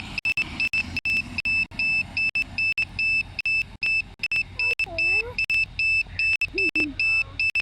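Drone remote controller beeping its low-battery warning: short high-pitched electronic beeps repeating quickly, about three a second.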